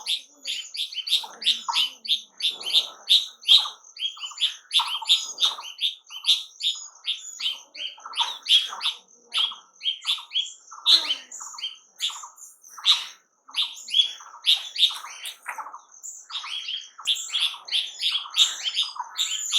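Small birds chirping busily, short chirps following each other several times a second and overlapping, as from several birds at once.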